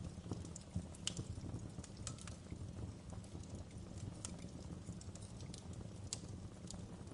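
Fireplace crackling: irregular sharp pops and snaps, a few each second, over a steady low rumble of the fire.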